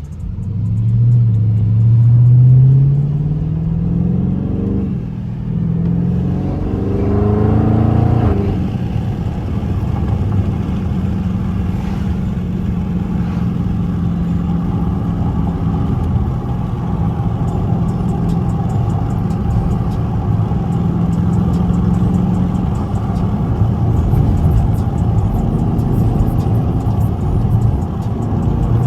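Dodge Scat Pack's engine pulling hard under acceleration, its note climbing twice through the first eight seconds or so. It then settles into a steady cruising drone.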